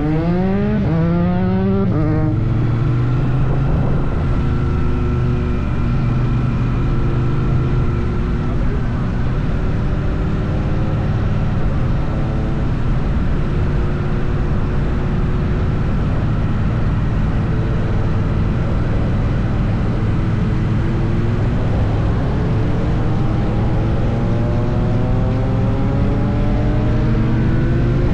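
Triumph Bonneville T100's parallel-twin engine under way on the road. It rises in pitch while accelerating, with a gear change about two seconds in, then runs steadily at cruising speed and climbs again in the last several seconds, over steady wind and road noise.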